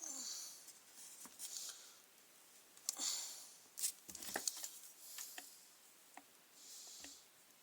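Light clicks, taps and small rustles of parts being handled during a grass trimmer repair, with a few short soft hissing sounds at intervals.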